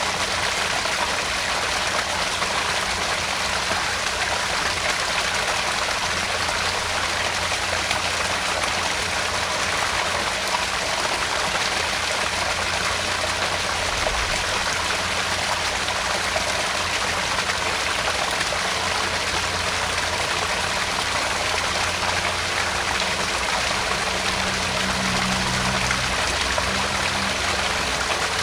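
Small garden-pond waterfall splashing and trickling steadily into the pond.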